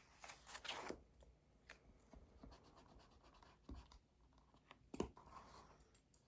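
Pen writing on paper, scratching in short strokes, with a few light taps and knocks; the loudest knock comes about five seconds in.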